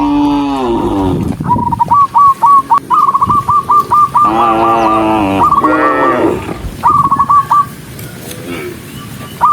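Cattle mooing, several long calls, the first falling in pitch as it ends. They are interleaved with four or five quick runs of short, high, evenly spaced pips, about six a second, which are as loud as the moos.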